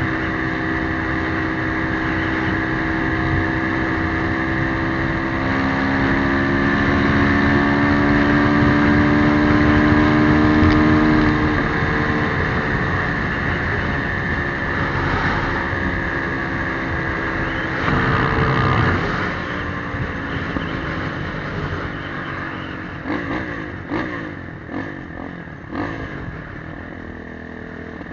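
Motorcycle engine running while riding, its note climbing for several seconds as it accelerates, then easing off. It grows quieter near the end, with a few short clicks.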